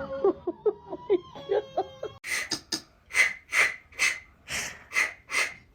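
A dog's short high whines, several a second. After a sudden cut come about ten loud breathy huffs, roughly two a second, typical of a dog breathing hard.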